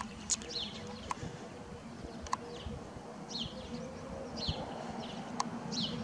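A small bird chirping outdoors: several short, falling chirps at irregular intervals, with a few faint clicks between them.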